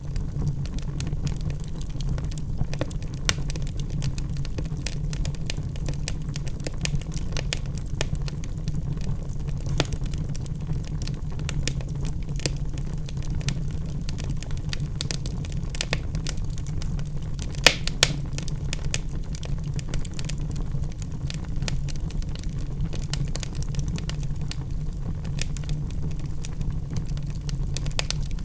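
Logs burning in a fireplace: a steady low rumble with frequent small crackles, and two louder pops in quick succession about eighteen seconds in.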